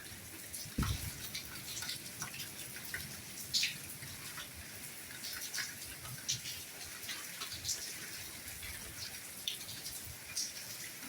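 Soft rain falling: a steady hiss with irregular individual drops pattering and dripping close by. A single low thud about a second in.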